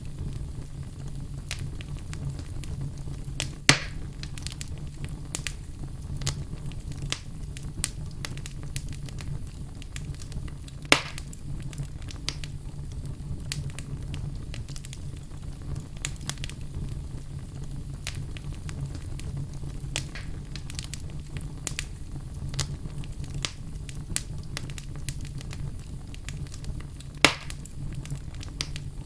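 Wood fire burning in a fireplace: constant small crackles over a steady low rumble, with three louder sharp pops, about four seconds in, about eleven seconds in and near the end.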